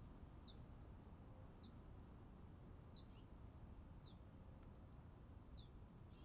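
A small bird giving short, high chip notes, each dropping slightly in pitch, repeated about once a second over a faint background hiss.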